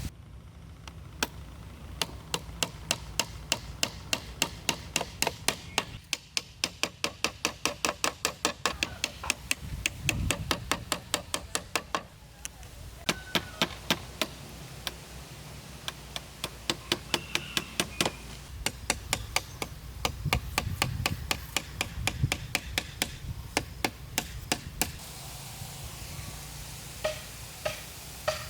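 Hammer striking into bamboo in quick runs of sharp blows, about four a second, with short pauses between runs.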